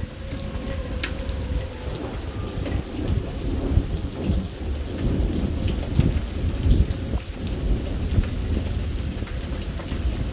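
Heavy thunderstorm rain with rolling thunder that swells through the middle. A faint wailing tone from a tornado siren fades out just after the start and returns, slowly rising, near the end.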